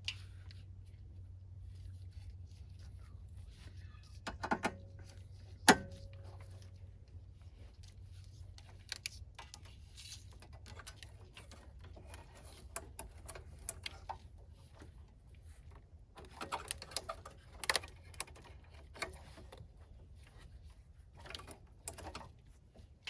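Hand work on car parts: scattered clicks, knocks and rattles of tools and metal parts being handled, with a sharp metallic clink that rings briefly about six seconds in. A low steady hum runs underneath.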